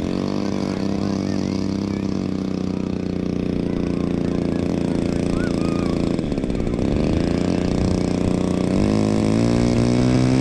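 Small engine of a radio-control model airplane running at a steady pitch, easing off briefly about six seconds in, then climbing in steps to a higher pitch near the end as the throttle is opened.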